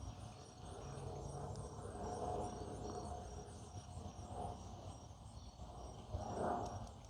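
Insects chirping in short, evenly spaced high pulses over a steady low background rumble, with one brief dull sound about six seconds in.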